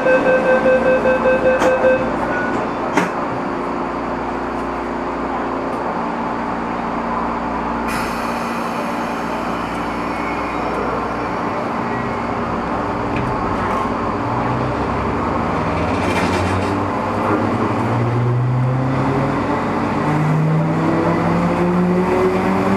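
Inside an MTR East Rail line electric train car: rapid door-closing warning beeps for about two seconds, then a knock as the doors shut. A brief hiss follows, then the train pulls away, its traction motors giving off a whine that climbs in pitch as it picks up speed.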